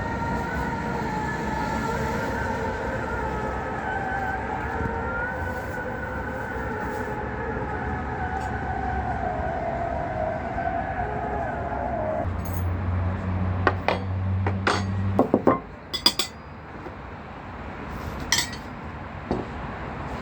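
A steady drone of several held tones, then a low hum for about three seconds, then glass and dishes clinking a few times.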